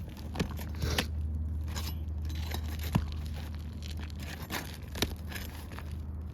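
A pry bar scraping and clicking as it works a roofing nail loose from under a shingle. A few sharp metal clicks stand out, with the shingle crackling, over a steady low hum.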